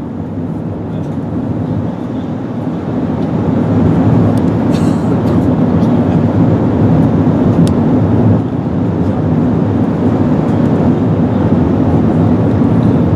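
Steady low rumble of airflow and engines heard inside the cabin of an Airbus A380 on approach. It grows louder over the first few seconds, then holds steady.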